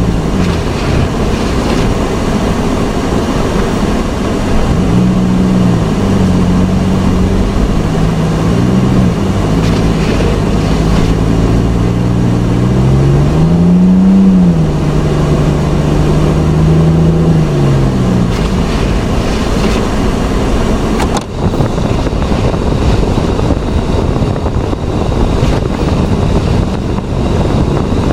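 A motor vehicle's engine running and revving up and down under a loud, steady rushing noise. About two-thirds of the way through the engine's pitch sinks into the rushing noise, which carries on, with a brief dip in level soon after.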